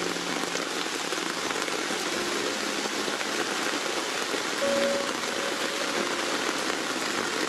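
Heavy rain falling steadily on wet pavement, a dense even hiss of splashing drops.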